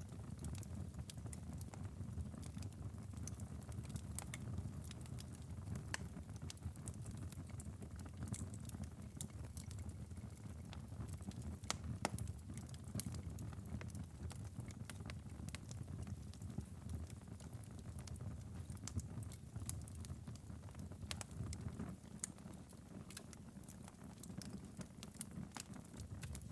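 Wood fire in a fireplace crackling: scattered sharp pops and snaps over a steady low rumble, with one louder pop about halfway through.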